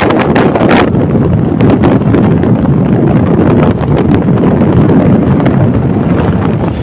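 Loud, steady wind buffeting on the microphone of a rider on the move.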